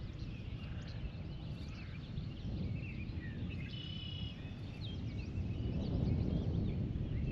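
Several songbirds chirping and calling in short gliding notes, with one brief held note a little before the middle. Under them is a low rumbling noise that grows louder in the second half.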